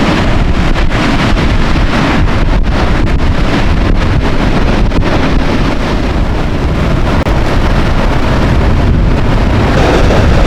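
Heavy Atlantic surf breaking and washing ashore, with strong wind buffeting the microphone and making a deep, constant rumble.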